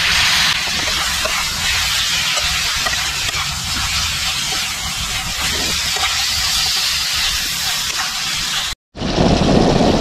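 Chicken pieces frying in a pan: a steady sizzling hiss over a low rumble, breaking off for a moment near the end.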